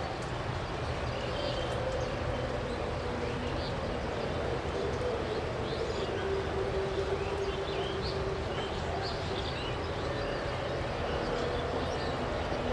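Jet airliner engines running at a distance: a steady rumble with a humming tone that dips in pitch about halfway through and rises again. Birds chirp briefly over it.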